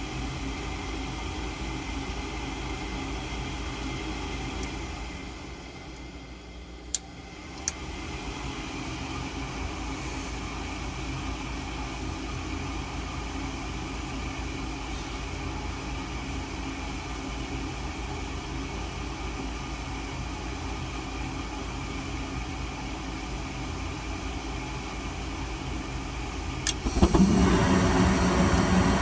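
Gas furnace motor humming steadily as the unit works through its start-up sequence. Around six seconds in the hum sags briefly and two sharp clicks are heard, like relays switching. Near the end a louder motor hum starts suddenly, as the furnace cycles on for another ignition attempt.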